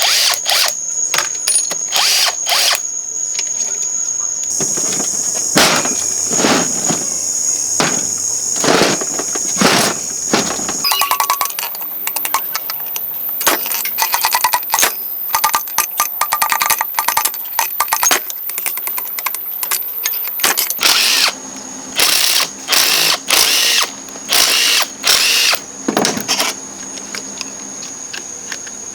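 Repeated short bursts of a handheld power tool, with abrupt shifts in the background sound where separate workshop clips are cut together.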